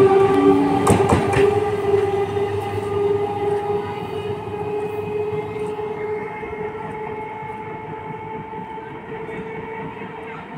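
Electric multiple-unit local train running through a station without stopping: a few wheel clacks over the rail joints as the last coach goes by, then a steady humming tone that fades away as the train moves off.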